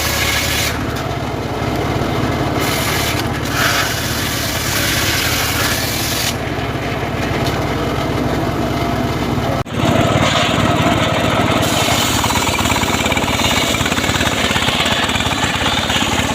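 Home-built engine-driven sawmill cutting a sengon log: a steady engine drone under the rasp of the blade through the wood. The sound dips briefly about ten seconds in.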